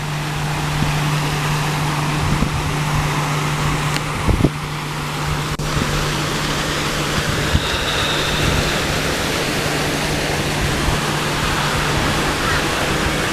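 Wind buffeting the microphone: a steady, loud rushing noise, with a low steady hum underneath that stops near the end.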